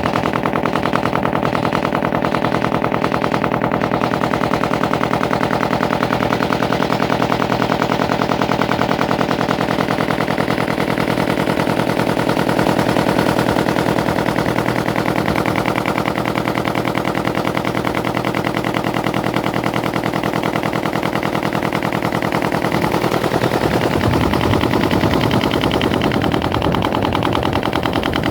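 A ferry boat's engine running steadily, a continuous run of rapid even pulses. About 23 seconds in, its sound changes, as if the throttle is altered.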